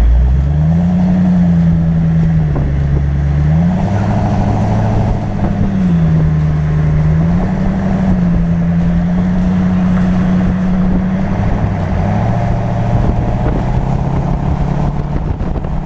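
Engine of a custom-built Morgan-style open roadster with an automatic gearbox, heard from the open cockpit while driving. Its note climbs and drops several times as the car pulls away and the gearbox changes gear, over steady wind and road noise.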